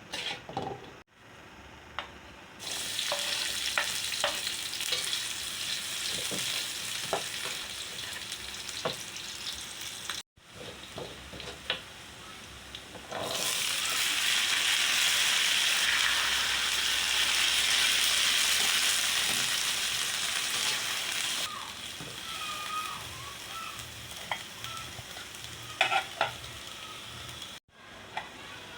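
Food frying and sizzling in hot oil in a pan, with scattered knocks and scrapes of a utensil stirring it. The sizzle comes in suddenly about three seconds in and is loudest through the middle stretch.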